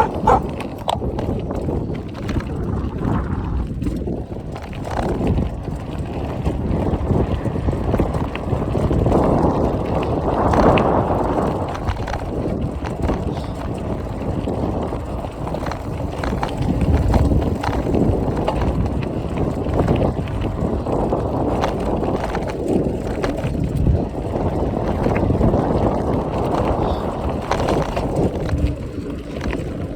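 Wind buffeting the microphone while riding a bike: a loud, rough rumble that swells and eases.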